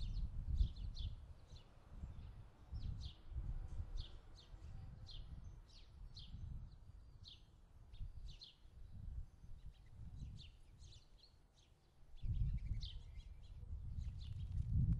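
A bird chirping over and over: short, high, falling chirps, about one or two a second, over an uneven low rumble.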